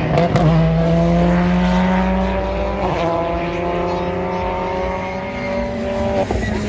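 Rally car engine under hard acceleration, its pitch climbing steadily through each gear, with an upshift about three seconds in and another near the end.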